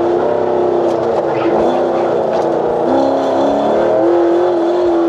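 LS7 V8 of a 1968 GMC pickup running hard on an autocross warm-up lap, holding a steady pitch. The note dips and climbs back between about one and a half and three and a half seconds in.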